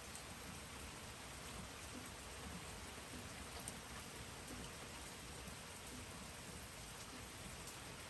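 Steady, faint rain falling, with an occasional sharper drip of a drop.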